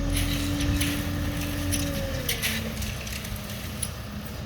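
Tractor engine running with a steady hum. Its pitch drops about two seconds in and settles lower, and short crunching crackles come through over it.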